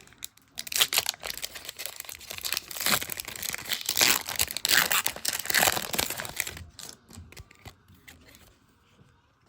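Wrapper of a trading-card pack being torn open and crinkled by hand, a dense crackling that goes on for about six seconds and then dies away.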